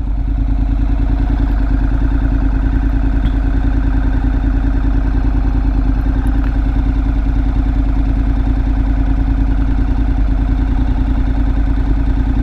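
Honda NC700X motorcycle's parallel-twin engine idling steadily with an even, rapid pulse.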